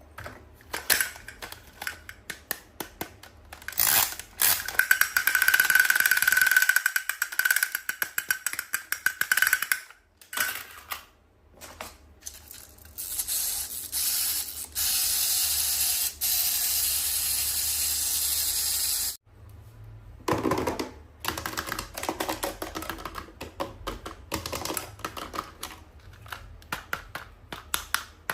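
Plastic packaging and small toy parts handled during an unboxing: many quick clicks and taps, a long stretch of crinkling, and a steady hiss of several seconds that cuts off suddenly.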